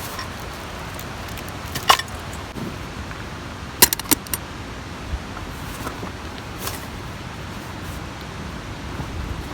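A few light metallic clinks and taps, one near two seconds in and a quick cluster of three or four about four seconds in, over a steady background rush.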